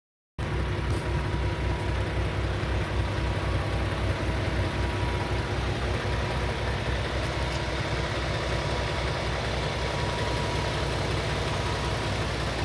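Heavy-truck diesel engine, a Paccar MX-13 inline-six, idling steadily with an even low pulse. It cuts in abruptly about half a second in, after digital silence.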